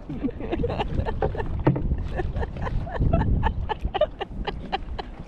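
Small waves slapping and splashing irregularly against the hull of a drifting jet ski, with a low wind rumble on the microphone.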